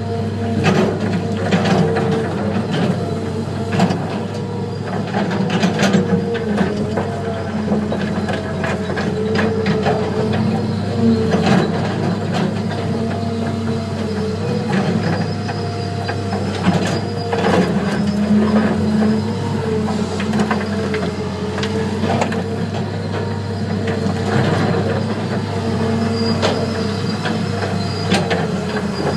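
Diesel engines of a Cat 325 excavator and a Terex TS14 scraper running steadily under load, their pitch wandering a little. Sharp clanks and knocks of digging and loading come now and then.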